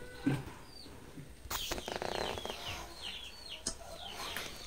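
Birds chirping in the background: short, high chirps that fall in pitch, repeated every second or so. About a second and a half in, a louder buzzy, pulsing bird call joins them for about a second.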